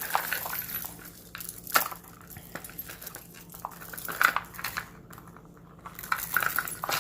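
Jewelry being handled: stone-bead necklaces clinking and rattling against each other, with light rustling, in a few scattered bursts and sharp clicks.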